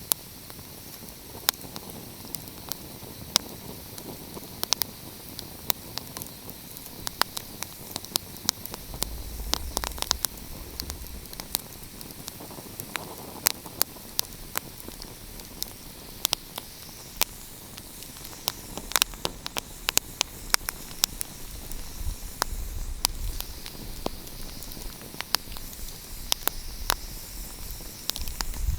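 Wood fire crackling: irregular sharp pops and snaps over a steady hiss. A low rumble comes in for a couple of seconds around 9 seconds in and again from about 22 seconds in.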